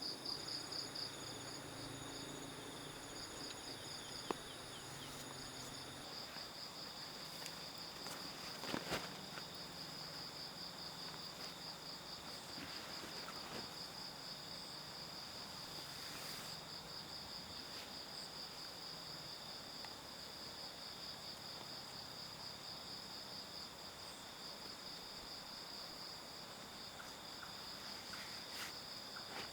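Insects, crickets by their sound, chirring in a steady, high-pitched pulsing trill, with a faint knock about four seconds in and a brief rustle near nine seconds.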